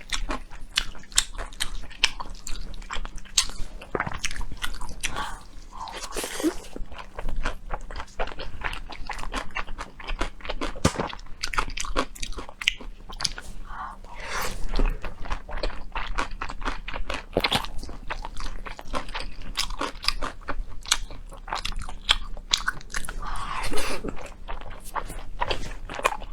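Close-miked eating: a rapid, steady run of crunchy bites and chewing, as from a person eating pancake wraps rolled around spicy instant noodles.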